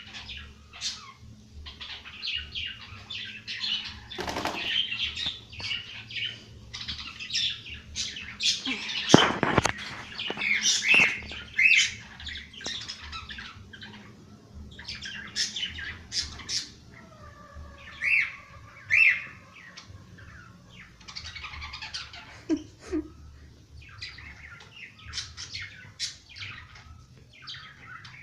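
Small birds chirping over and over in quick, short calls, with a few brief louder flutters of wings, about four seconds in and again around nine to eleven seconds.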